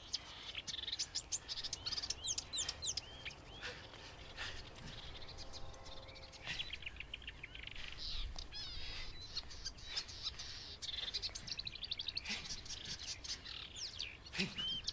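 Marsh warbler singing: a rapid, varied stream of chirps, trills and quick whistled glides, typical of this species' mimicking song.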